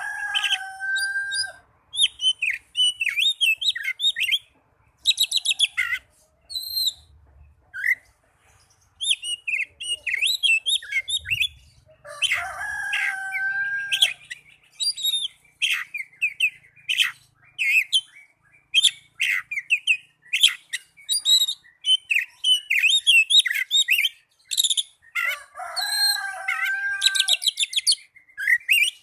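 Oriental magpie-robin song: a long, varied run of quick chirps, trills and whistled phrases with short pauses between them. About 12 s in and about 25 s in come longer, lower drawn-out calls that slide down in pitch.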